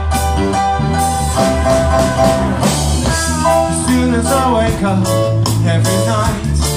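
Live rock cover band playing amplified, with bass, drums, guitar and a singing voice.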